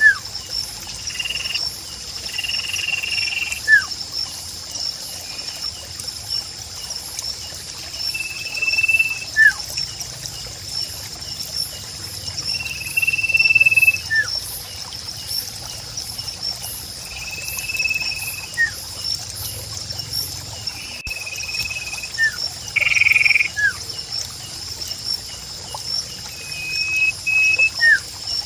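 Nature ambience: a steady high-pitched insect drone, with short buzzy calls repeating every few seconds and brief falling whistle notes scattered between them. The loudest buzzy call comes about three quarters of the way through.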